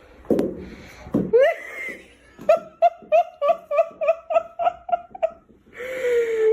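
A person laughing: after a few short sounds, a fast run of about a dozen even "ha" pulses at about four a second, then a held, slightly falling note near the end.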